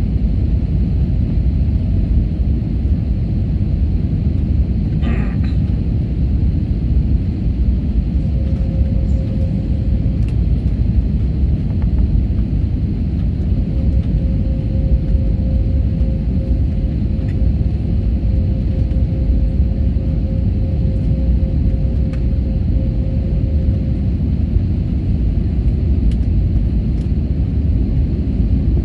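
Steady low rumble of an airliner during its landing. A faint steady hum rises above it for several seconds in the middle.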